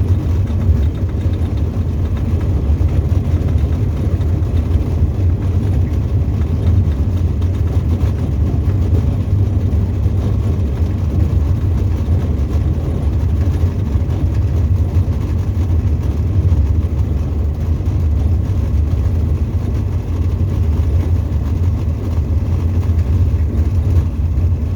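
Engine and propeller of a Tecnam ultralight aircraft, a loud steady drone heard inside the cockpit.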